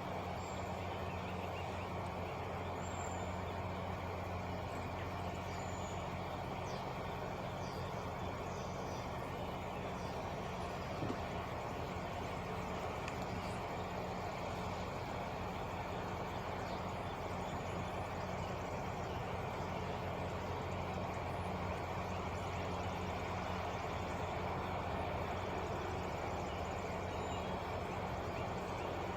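Truck engine idling with a steady, even hum.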